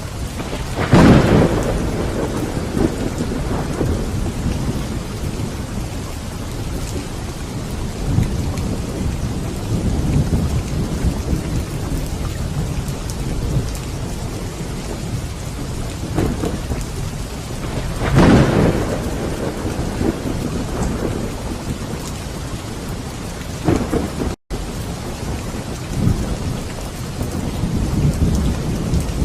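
Steady heavy rain with thunder: a sharp crack about a second in and another around two-thirds of the way through, each trailing off into rumbling, with quieter rolls of thunder between. The sound cuts out for a split second a little after the second crash.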